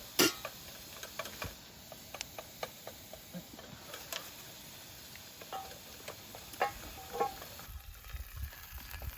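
Food sizzling in a cast-iron skillet over a campfire, with scattered pops and crackles. There is a sharp click just after the start and a low rumble near the end.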